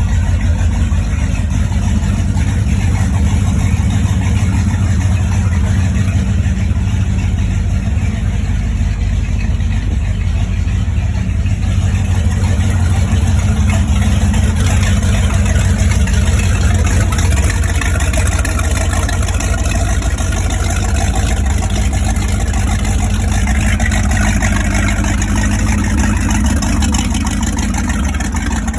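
Motorboat engine running steadily after its spring startup, a deep, even drone with a higher hiss joining about twelve seconds in.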